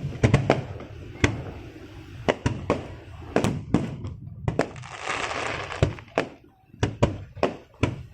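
Fireworks bursting: a rapid, irregular string of sharp bangs, with a stretch of hissing crackle about five seconds in.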